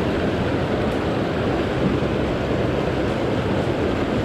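Rushing water of a mountain stream running high after rain, a steady, even rush.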